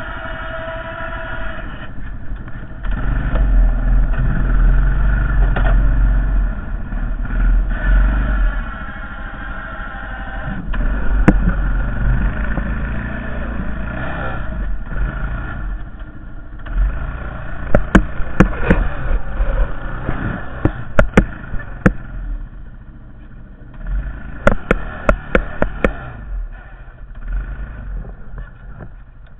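Honda Foreman 450 ATV's single-cylinder engine running and revving up and down as it pushes a snow plow blade. From about halfway on, sharp knocks and rattles come through repeatedly.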